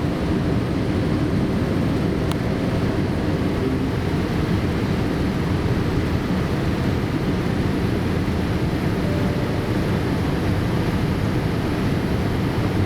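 Steady cabin noise inside a Boeing 787-8 airliner in flight: the even, low hum of engines and airflow, with one faint click about two seconds in.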